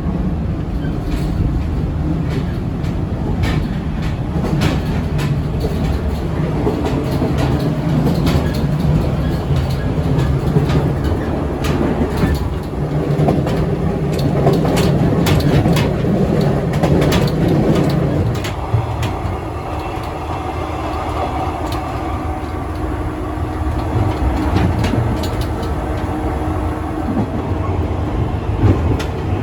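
JR 115 series electric multiple unit running along the line: a steady mechanical running sound with wheels clicking over rail joints. About two-thirds of the way through, the running note changes, the deep part drops away and a higher steady tone takes over.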